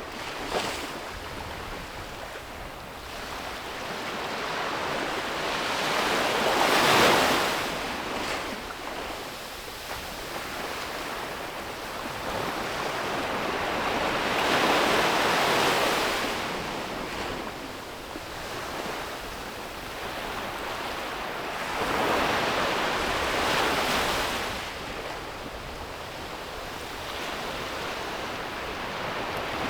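Ocean waves breaking on a beach, each surge of surf swelling and washing out, with the biggest breaks about every eight seconds.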